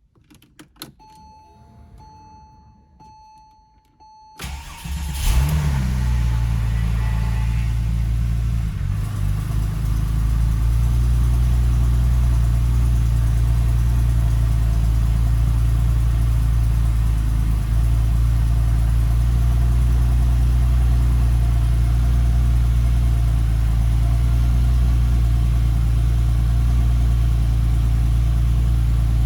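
2001 Porsche 911 Turbo's twin-turbo flat-six on a cold start: a few clicks and a steady beep, then about four seconds in the starter cranks briefly, the engine catches and flares, and within a few seconds it settles into a steady cold idle.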